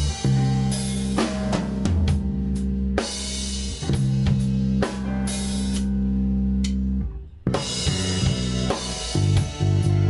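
Instrumental rock band playing live: drum kit with kick and snare, bass and guitar. The band breaks off briefly about seven seconds in, then comes straight back in.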